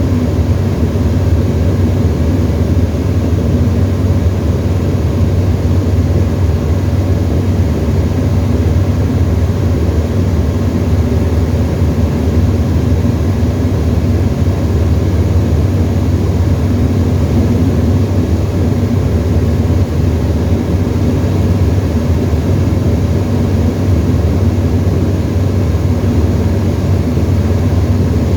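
Tecnam ultralight's engine and propeller running steadily, heard inside the cockpit as a constant low drone.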